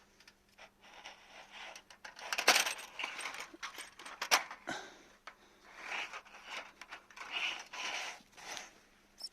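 Scuffling and scrabbling of a cat going after a mouse: irregular sharp clicks, taps and scrapes with rustling, loudest about two and a half and four and a half seconds in.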